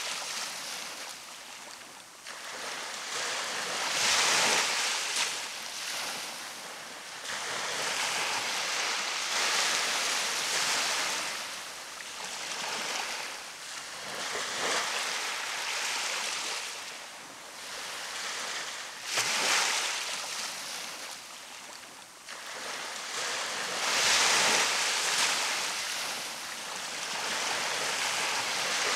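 Ocean waves breaking and washing up a beach, the surf hiss swelling and fading about every five seconds.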